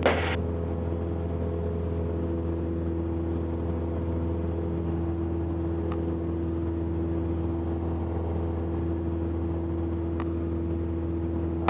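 Cessna 172's piston engine and propeller droning steadily at climb power just after takeoff, heard inside the cockpit through the intercom. Two faint clicks, one about halfway through and one near the end.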